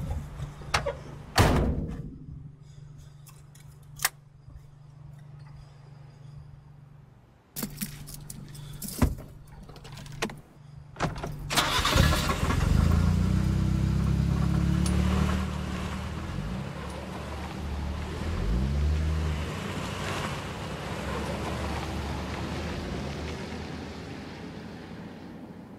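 Car keys jangling and clicking in the ignition over a low hum, then about halfway through a car engine starts with a loud burst, runs with a brief rev, and fades out near the end.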